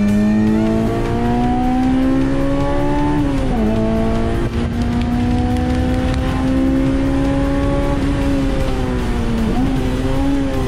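Honda S2000's four-cylinder engine at high revs under hard acceleration on track: the pitch climbs, drops sharply with an upshift about three and a half seconds in, then climbs slowly again and holds high.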